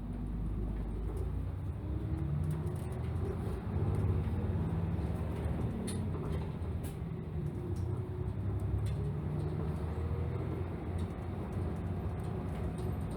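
Route bus's diesel engine heard from inside the cabin, pulling away and accelerating: the engine note swells, climbs in pitch, drops back and climbs again as it works up through the gears, over a steady road rumble.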